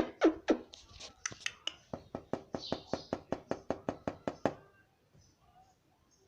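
A rapid, regular series of sharp clicks or taps, about five a second, stopping suddenly a little after four seconds in.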